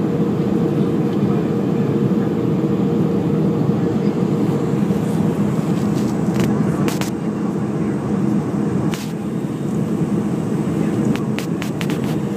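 Boeing 737-300 cabin noise: the twin CFM56-3 turbofans and the airflow running as a steady dense drone, with a steady hum near 500 Hz. Several brief knocks or rattles come in the second half.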